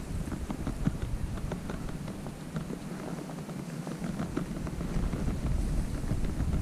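Strong wind rumbling on the microphone, easing a little in the middle, with many light, irregular ticks scattered through it.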